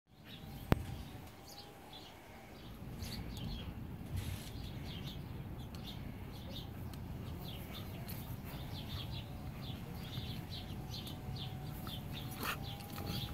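Small birds chirping repeatedly in the background over a low rumbling noise, with one sharp click about a second in.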